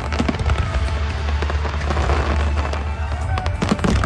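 Aerial fireworks bursting and crackling in a rapid barrage, with music playing underneath. A dense crackle comes about halfway through, and a cluster of sharper bangs comes near the end.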